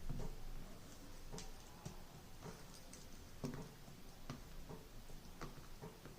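Faint, irregular light clicks and taps, about two a second, from kitchen items being handled while a mixer jar is filled with banana pieces. The loudest taps come right at the start and about halfway through. The mixer motor is not running.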